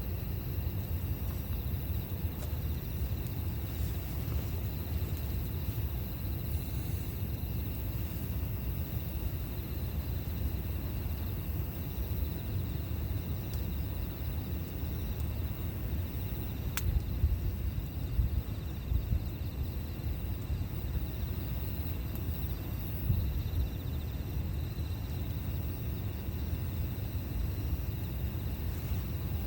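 Wood campfire burning with a steady low rumble and one sharp crackle about two-thirds of the way through, under a steady high drone of insects.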